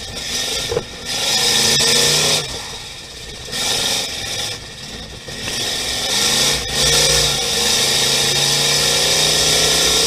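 Buick 6.6-litre "Nailhead" V8 of a stripped-out 1930 Ford Model A hot rod at racing speed, heard from inside the cabin: the engine lifts off twice in the first half, then is held on the throttle at a steady high level for the last few seconds.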